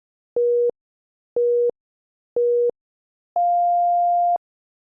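Workout interval timer counting down: three short beeps about a second apart, then one longer, higher beep marking the switch to the next exercise.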